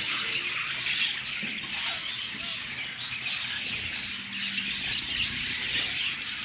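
Many small cage birds chirping at once, a dense, constant high-pitched chatter of overlapping calls.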